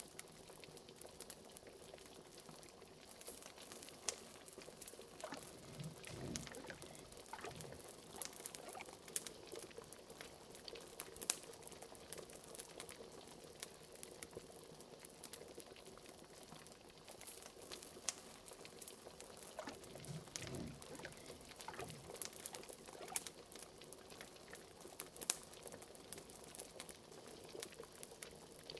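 Cauldron of liquid bubbling at a simmer, with many small sharp pops and crackles scattered throughout, and two deeper gloops of bubbles about six seconds in and again about twenty seconds in.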